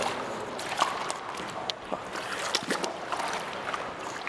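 Footsteps wading and splashing through shallow standing water, irregular sloshes and splashes that echo off the tunnel walls.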